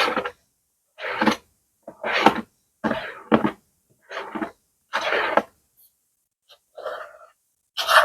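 Plastic bags being crinkled and rustled by hand in short, separate bursts, about one a second, with a brief pause about three-quarters of the way through.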